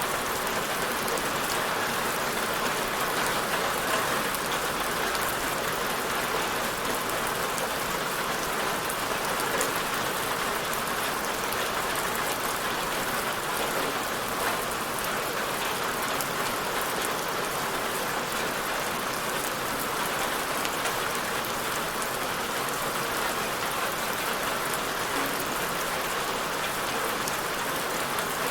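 Steady rain falling, an even hiss of many drops pattering on a surface, with no change in strength.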